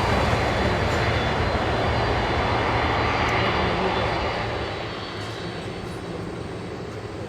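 Boeing 767-300ER airliner's twin jet engines: a loud, steady rushing noise with a faint high whine, fading off about four and a half seconds in as the plane moves away.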